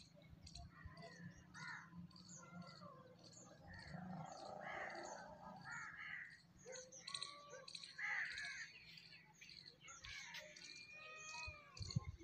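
Faint chorus of birds calling, many short calls overlapping one another.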